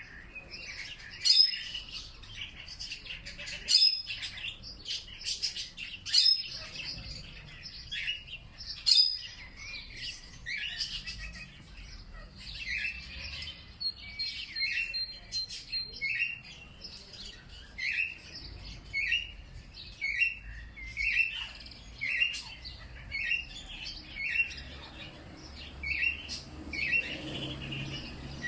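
Wild songbirds chirping and calling. A loud, sharp call repeats every two to three seconds at first, then a bird gives a short falling note about once a second, with other chirps around it and a brief thin high trill in the middle.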